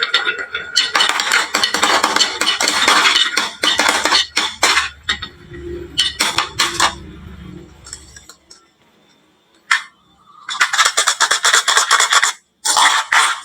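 Marbles clattering down a wooden marble run slope: dense runs of rapid clicks as they knock against each other and the track, a low rolling rumble in the middle, a short lull, then another burst of clattering near the end.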